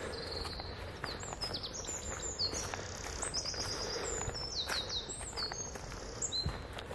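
Several woodland songbirds singing at once: many high chirps, short trills and quick runs of repeated notes overlapping.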